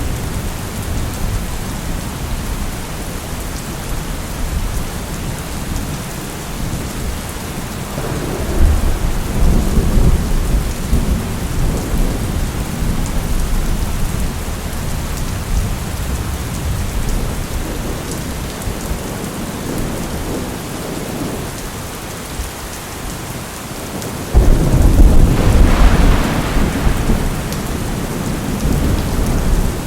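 Steady heavy rain with thunder rumbling twice: a low roll about a quarter of the way through, then a louder clap that starts suddenly about two-thirds of the way through and rumbles on for a few seconds.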